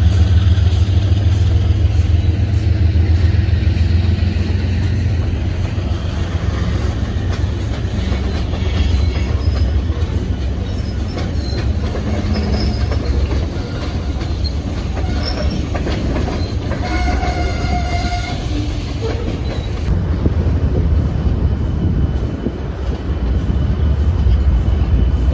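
A train running on the rails with a steady, loud low rumble of wheels and cars, and a short high-pitched tone about seventeen seconds in.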